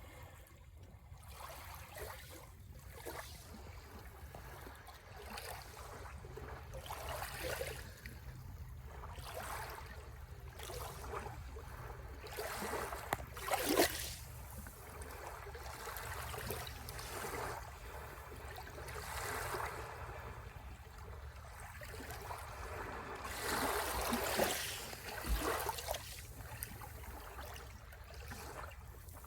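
Sea waves washing onto the shore, swelling and falling back every few seconds, with one louder wash about halfway through and another near the end.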